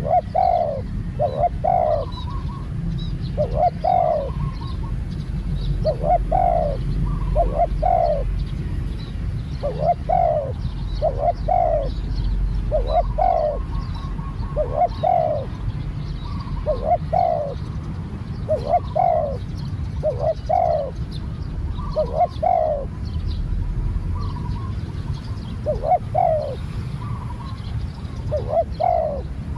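Spotted dove cooing over and over, short phrases of two or three coos every second or two, with small birds chirping faintly higher up. A steady low rumble runs underneath.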